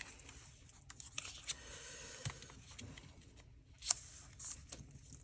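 Faint rustling of paper being handled, with a few light taps, the sharpest about four seconds in.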